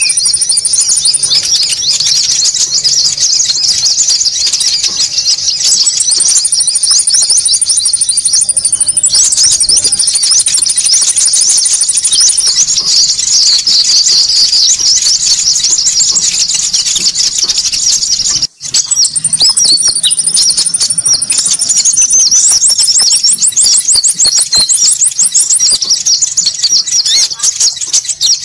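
Bird-lure recording of konin birds calling: a loud, dense chatter of many high chirps overlapping, with a thin high steady whistle that comes and goes and a rapid high trill later on. The sound breaks off for an instant about two-thirds through.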